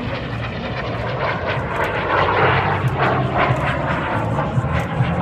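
Aircraft engines roaring as an airplane flies past, growing louder from about a second in and peaking a couple of seconds later.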